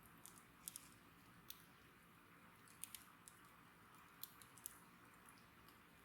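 Wood fire crackling quietly, with a scattering of sharp pops from the burning wood.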